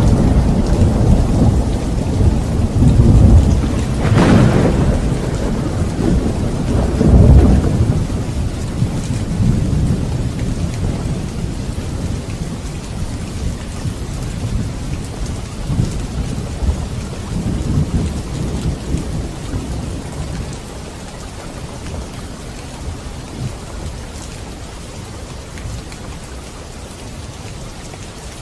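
Thunder rumbling over steady rain, with a sharp clap about four seconds in and another swell of rumble a few seconds later. The thunder dies away through the second half, leaving the even hiss of rain.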